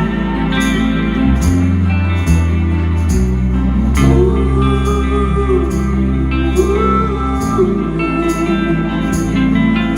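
A band playing live music: held, pitched instrumental notes, some bending in pitch about six to seven seconds in, over a steady beat.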